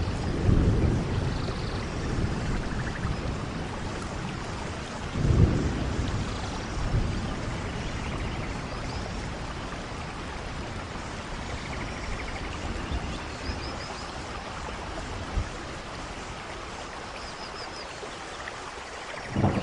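Steady rainforest rain, an even hiss of falling rain, with a few short low rumbles: near the start, about five seconds in and again at the end. A few faint high chirps sound over the rain.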